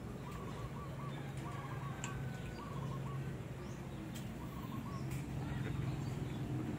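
Birds chirping in quick runs of short, evenly repeated calls, over a low steady hum, with a few faint clicks.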